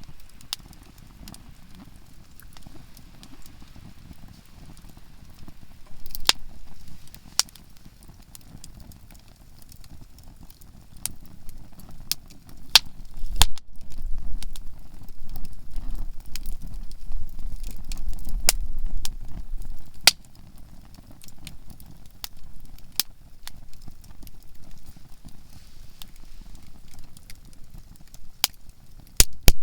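Conifer-firewood campfire crackling, with frequent sharp pops and snaps at irregular intervals as the softwood bursts. Under it is a low rumble that grows louder for several seconds in the middle.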